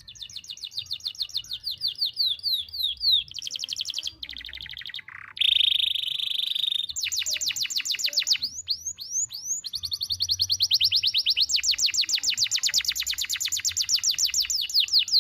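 Domestic canary singing a long, unbroken song of rapid high trills, with a held whistle-like note about five and a half seconds in and a few quick sweeping notes around nine seconds in.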